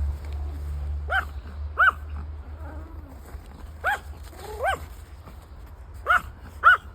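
Small dog, a Yorkshire terrier, yapping: six short, high barks in three pairs, the two in each pair under a second apart.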